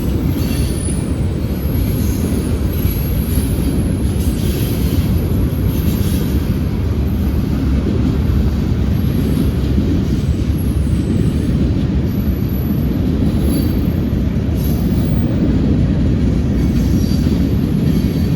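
Freight train rolling past, a steady, loud rumble of cars on the rails, with faint high wheel squeal now and then.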